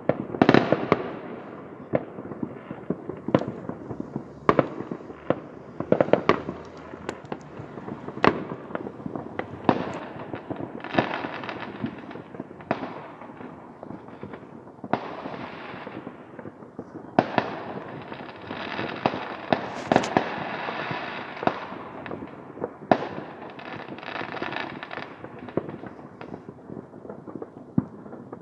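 Fireworks going off across a city at New Year's midnight: frequent sharp bangs, overlapping and irregular, with several stretches of rapid crackling pops.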